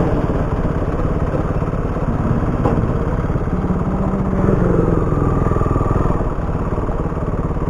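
Motorcycle engine running steadily while riding, with wind noise on the microphone; the engine note shifts downward about halfway through.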